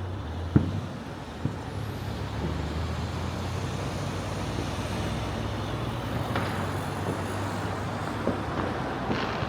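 Distant fireworks over a city at night: one sharp bang about half a second in, a smaller one a second later, and scattered faint pops and crackles later on. Under them runs a steady low rumble of distant traffic.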